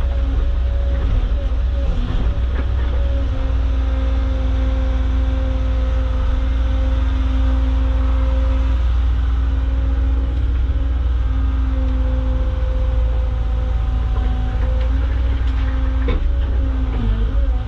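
Caterpillar hydraulic excavator's diesel engine running steadily with a constant whine over a low rumble; the whine dips in pitch briefly near the end.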